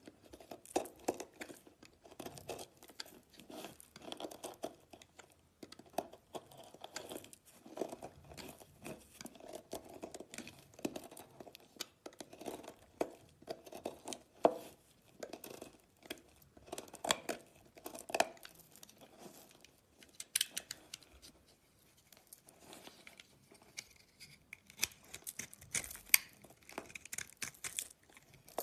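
Slime being squeezed and stretched by hand, giving a run of irregular sticky crackles and pops; from about twenty seconds in the crackles turn sharper and higher.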